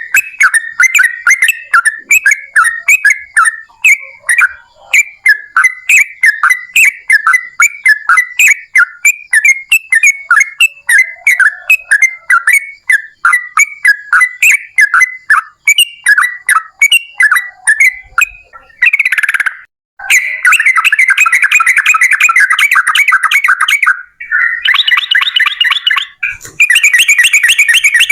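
Yellow-vented bulbul singing its long rapid song: a quick run of bubbly, chirping notes. About two-thirds of the way through it changes to dense, fast trilled bursts, broken by brief pauses.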